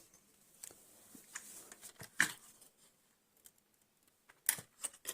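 Small clicks, scrapes and rustles of hands prying the lift motor out of a homemade RC tractor, with a sharper knock about two seconds in and a couple more near the end.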